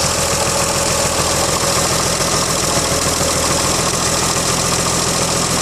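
1933 Chevrolet's freshly rebuilt inline-six engine running steadily at idle, heard up close with an even firing beat. The ignition timing is set a little advanced, and the owner decides to back it off.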